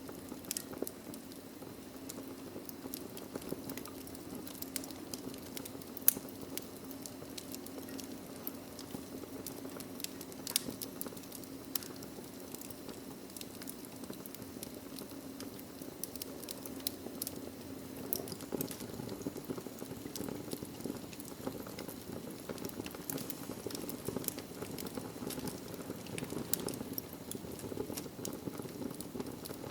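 Logs burning in a fireplace, crackling: frequent small snaps and pops over a low steady rush of flame, with a sharper pop about six seconds in and another about ten seconds in.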